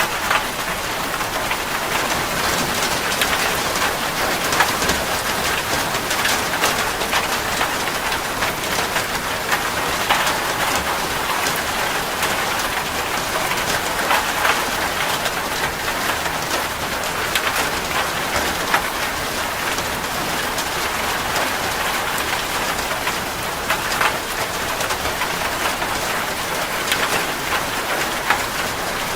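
Steady rain falling, with many individual drops ticking on a hard surface.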